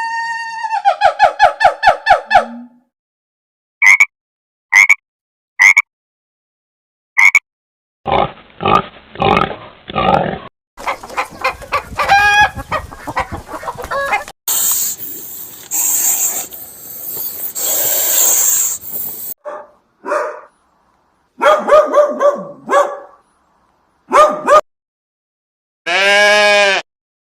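A sequence of different animal calls played one after another, each a few seconds long, separated by short silent gaps: pitched repeated calls, short chirps and noisier grunting stretches.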